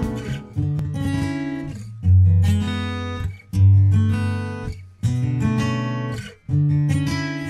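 Background music: acoustic guitar strumming chords, a new strum about every second and a half, each ringing out and fading.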